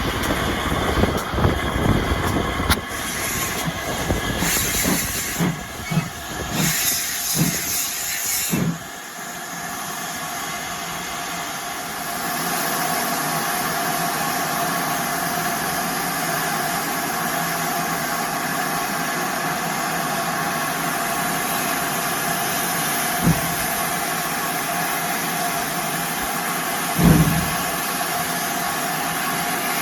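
Steam railway locomotive hissing steadily with escaping steam. Irregular rumbling and bursts of louder hiss fill the first nine seconds before the hiss settles to an even level. Two short knocks come near the end.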